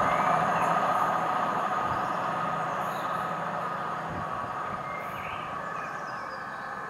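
Diesel multiple-unit train pulling away, its engines' steady hum and rumble fading as it recedes.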